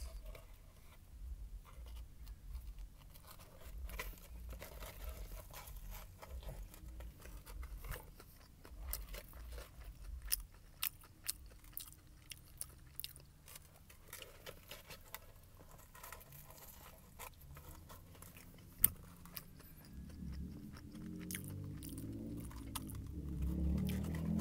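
Close-up chewing of a fried chicken sandwich on glazed donut buns, the crispy breaded chicken crunching in many sharp crackles, with one especially loud crunch late on. Low rumbling handling noise builds near the end.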